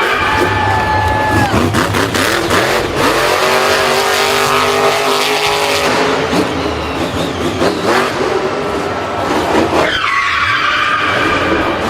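Racing vehicle engines revving, with tyre squeal and skidding; the engine pitch rises and falls several times.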